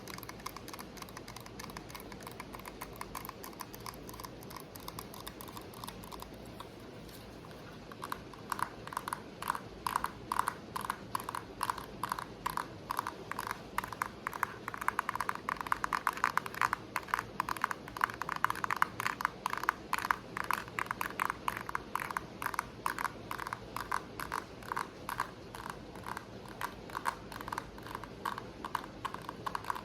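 Fast tapping on a hard object, light at first, with a short lull about six seconds in, then louder taps with a slight ring at a quick, steady pace, over a steady hiss of rain.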